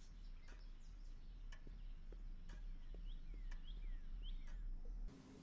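Faint quiet ambience with a low steady hum and scattered light ticks, broken by several short, falling bird chirps a few seconds in. It all cuts off just before the end.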